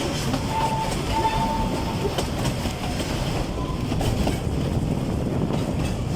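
Narrow-gauge forest railway train running steadily along the track, wheels rumbling and clacking over the rails, with a faint high squeal briefly about a second in.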